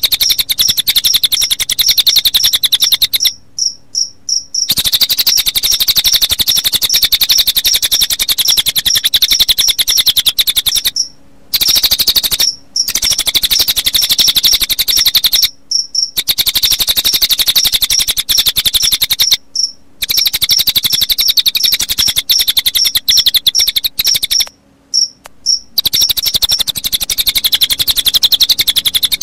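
Recorded cililin bird calls mixed with cricket chirping, used as a training track for songbirds. It is a fast, high, even trill of rapid pulses that stops briefly for short pauses several times.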